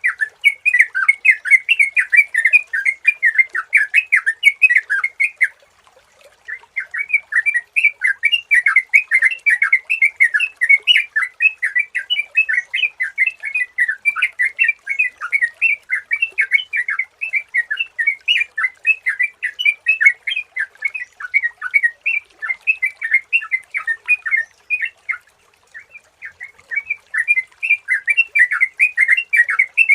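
Yellow-vented bulbul (trucukan) singing: a rapid, continuous run of bubbling chattering notes, with a short pause about six seconds in and a thinner stretch near the end.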